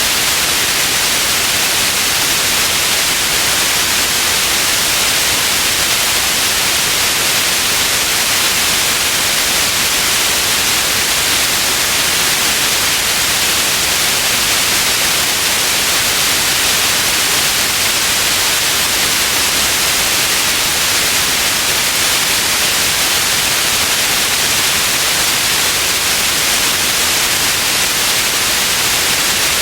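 Synthetic white noise: a steady, even hiss, bright and strongest in the upper range, with no changes or events.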